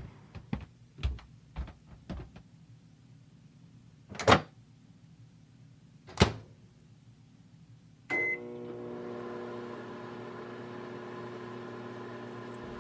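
Microwave oven heating water. It opens with a few light clicks and two loud clunks, then a short beep, and after that the oven runs with a steady hum.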